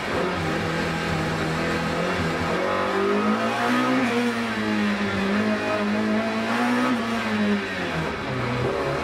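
BMW M3 2.5 Group A race car's four-cylinder engine running hard under load, heard from inside the cabin. Its pitch climbs about three seconds in and holds, then drops sharply near the end.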